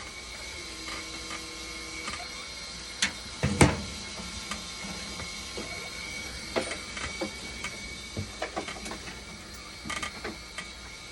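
Irregular clicks and knocks from work on a hemodialysis machine, the loudest about three and a half seconds in, over a steady hum with a faint high whine.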